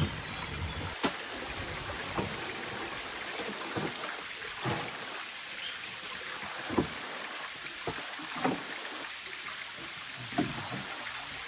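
Steady hiss of running water or rain, with about eight separate knocks and thuds at uneven intervals of one to two seconds.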